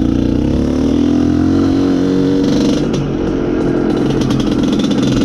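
Izh Planeta Sport's single-cylinder two-stroke engine running under load as the motorcycle is ridden, its pitch holding fairly steady with small rises and dips, with some rattling from the bike in the middle.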